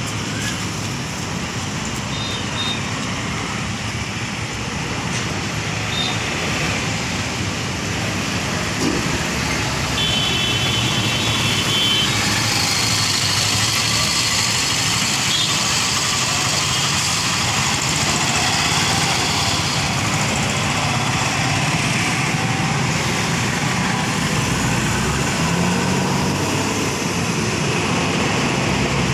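Steady road traffic noise with vehicle engines running, growing a little louder about ten seconds in. A brief high tone sounds around the same time.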